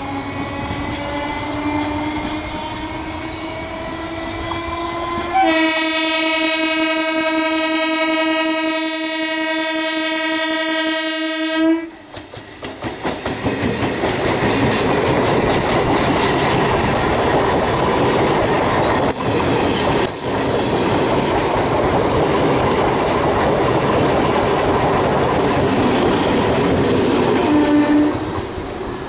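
Old-series Jessop electric multiple unit train. A rising whine comes in as it approaches, then a long, steady horn blast of about six seconds that cuts off suddenly. The train then passes close by with loud rumble and rhythmic wheel clatter on the rail joints, and a short horn blip sounds near the end.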